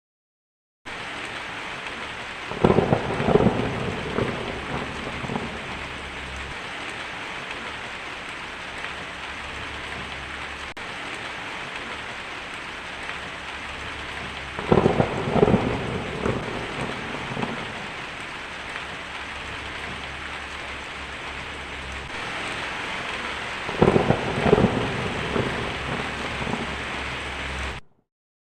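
Steady rain with three claps of thunder about ten seconds apart, each a sharp crack that rumbles off over two or three seconds. The sound starts about a second in and cuts off abruptly near the end.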